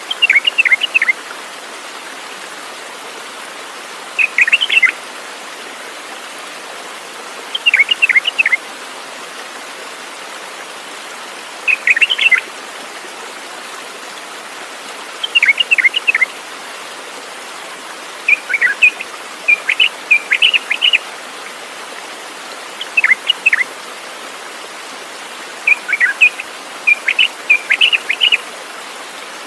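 A songbird singing short bursts of quick, falling chirps, repeated every three to four seconds, with the phrases running longer near the end. Under them is a steady rushing hiss like running water.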